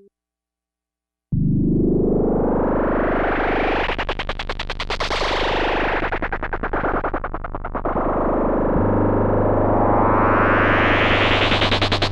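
Sequential Prophet-10 rev 4 analog polyphonic synthesizer playing a preset dry, with no effects. After about a second of silence a sustained low chord comes in, its filter sweeping open to a bright buzz, closing, and opening again. There is a fast pulsing in the middle, and the bass note changes about two-thirds of the way through.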